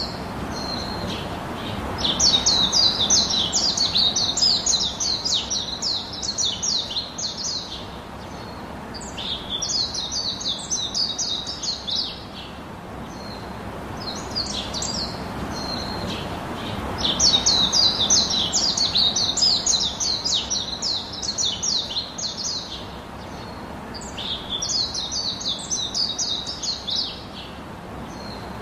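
A songbird singing in phrases of rapid repeated high chirps, each phrase a few seconds long, with short pauses between, over a steady background hiss.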